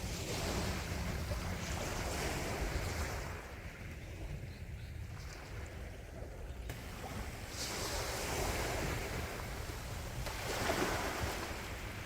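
Sea waves washing in and breaking, the surf swelling and easing every few seconds, over a steady low rumble.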